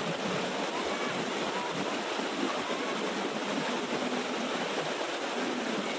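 Small waterfall with water falling and running steadily, an even, unbroken rush of noise.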